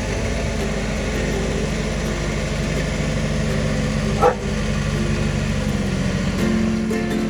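Massey Ferguson tractor's diesel engine running steadily, with a single short dog bark about four seconds in.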